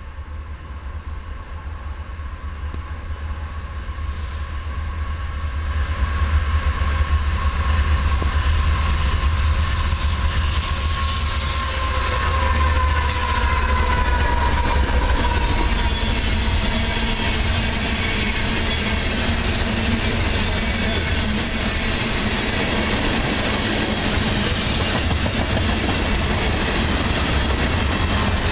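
Freight train led by two Canadian Pacific GE AC4400CW diesel-electric locomotives approaching and passing close by. The rumble of the locomotive engines grows louder over the first several seconds, with a tone that drops in pitch as the locomotives go by about twelve seconds in. After that a long string of loaded tank cars rolls past with steady wheel-on-rail noise and clickety-clack.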